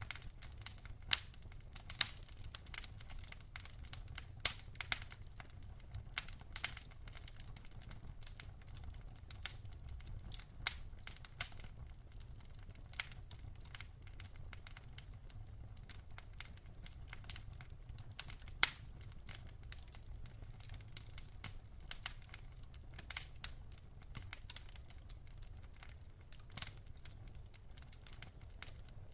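Wood campfire crackling, with irregular sharp pops and snaps over a low steady rumble of the burning fire.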